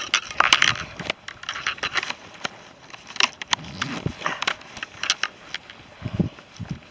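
Footsteps on a soft, wet hillside path with rustling and handling close to the microphone: a string of irregular short crunches and clicks, with a couple of low thumps near the end.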